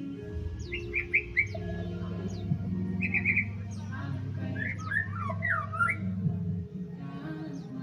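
White-rumped shama singing: rapid clusters of short clear notes, twisting whistled phrases and sharp high notes sweeping downward.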